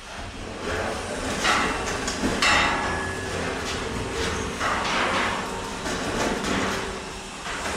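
Irregular metallic knocks and scraping, with a brief ringing tone about three seconds in.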